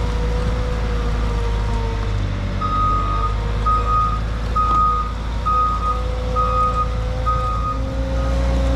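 Skid steer engine running steadily while its reverse alarm beeps about once a second, starting a few seconds in: the machine is backing up.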